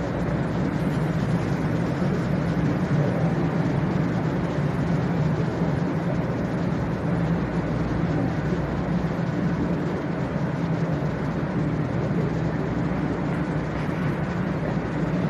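Hello Kitty Shinkansen, a JR West 500 series train, standing at the platform with its doors open: a steady low hum from its onboard equipment over an even rushing noise.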